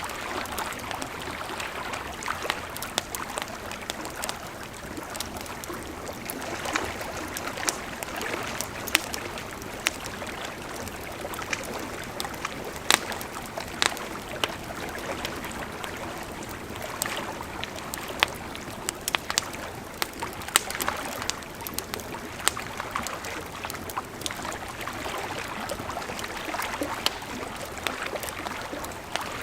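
River water flowing steadily, with a wood campfire crackling over it in sharp, irregular pops.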